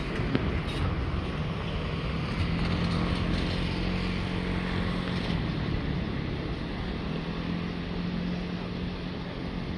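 Wind blowing across the microphone in the open air, under a steady low hum that drops out for a moment about halfway through, then returns.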